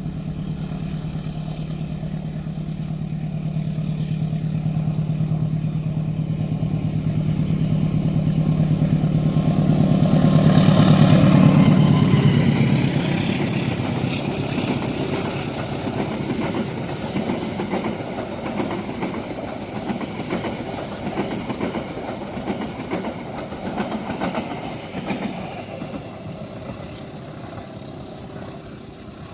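Diesel locomotive approaching and passing, its engine drone growing to its loudest about eleven seconds in. The train's cars then roll by with a clickety-clack of wheels over rail joints, fading away as the train recedes.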